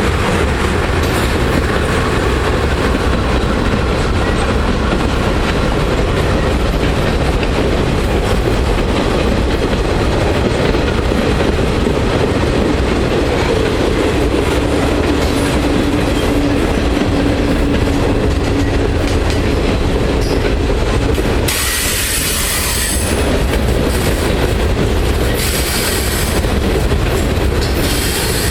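Norfolk Southern freight train rolling past: a steady loud rumble and clatter of wheels on the rails, with a faint held tone through the middle and a few short high squeals in the last third.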